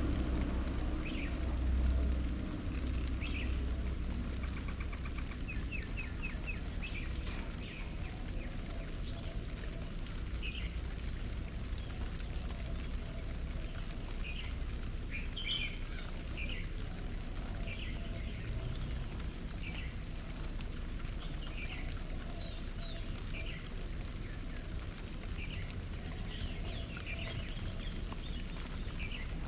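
Garden birds calling with short, scattered chirps, with a quick rattling run of repeated notes about five seconds in. A low rumble runs underneath and is louder in the first few seconds.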